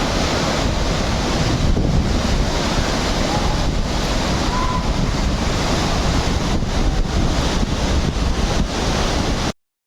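Steady rush of river rapids with wind buffeting the microphone. It cuts off suddenly near the end.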